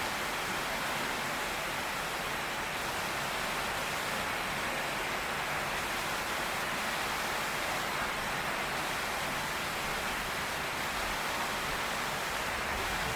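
Heavy rain pouring steadily on a tin roof, an even hiss with no thunder claps.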